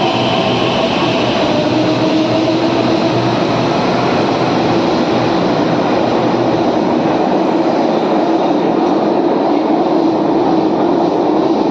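A train running steadily: a continuous rumble with a few steady humming tones, unchanging throughout.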